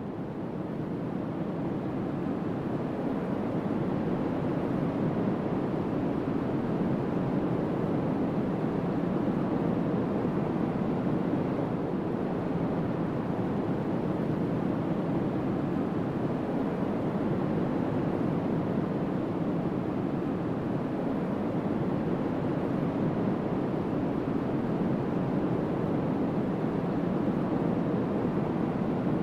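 Strong wind blowing across the microphone: a steady, even rush with no breaks.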